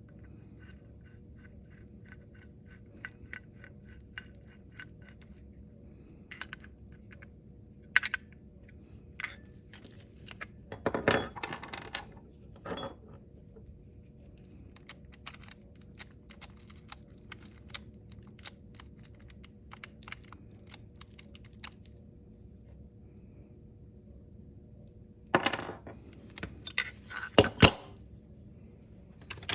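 Hand tools and small metal parts clicking and clinking while being handled, with an even run of small ticks in the first few seconds and louder rattles about 11, 25 and 27 seconds in.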